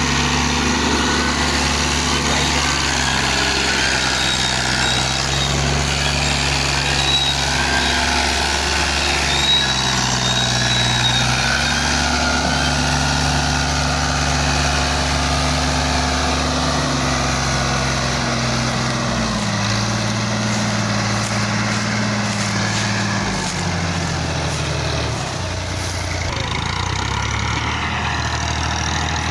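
Fiat 480 tractor's diesel engine running steadily, its pitch shifting up and down a few times and settling lower in the second half.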